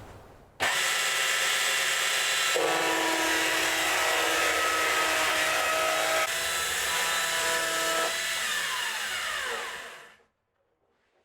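A powered sawmill saw starts suddenly and runs loud and steady, shifting in tone a few times. Near the end it winds down with a falling whine and stops.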